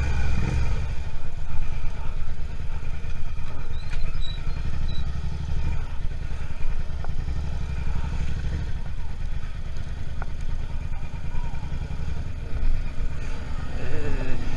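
Suzuki SV650's V-twin engine running steadily under the rider, a bit louder for the first half second and then easing to an even cruise.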